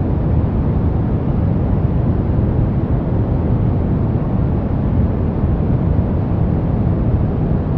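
Steady brown noise: an even, deep rumbling hiss, strongest in the lows and fading toward the highs, unchanging throughout.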